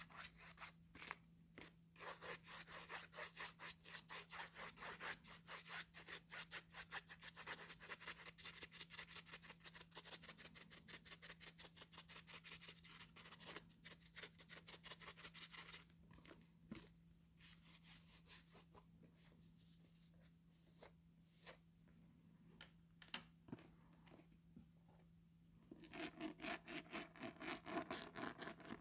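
Plastic comb teeth scraped over a sheet of calendar paper, a fast run of fine clicks in repeated strokes. About sixteen seconds in it drops to a quieter stretch of scattered ticks and taps, and the dense scraping starts again near the end.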